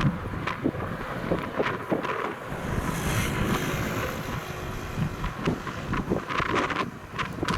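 Wind buffeting the microphone outdoors: a gusty rumble with irregular crackling puffs.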